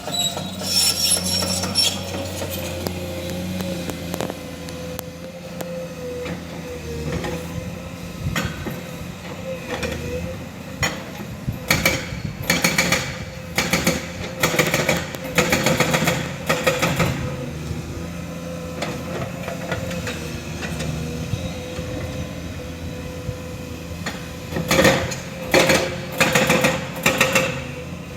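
Excavator running steadily with a held whine from its hydraulics, broken by two spells of rapid clanks and knocks as steel bucket or tooling strikes and scrapes rock, about midway and again near the end.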